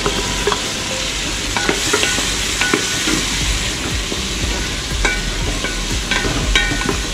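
Chopped tomatoes sizzling in hot oil with fried onions and green chillies in a large aluminium pot. A wooden spatula stirring them knocks and scrapes against the pot.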